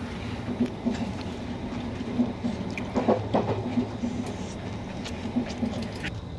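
Passenger train running, heard inside the carriage: a steady low rumble with a faint pulsing beat, and a few light clicks over it.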